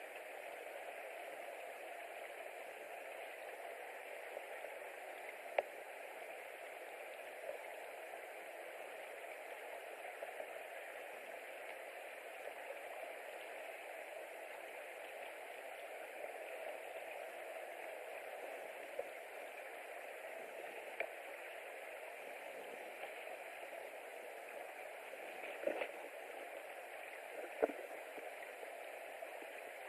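Steady hissing outdoor background noise with scattered sharp ticks, the loudest about six seconds in and twice near the end.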